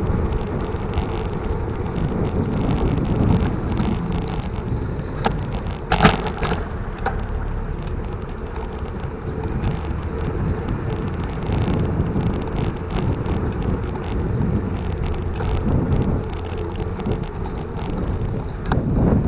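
Riding a bicycle: wind buffeting the microphone over tyre and road noise, with scattered rattling clicks and a sharp knock about six seconds in.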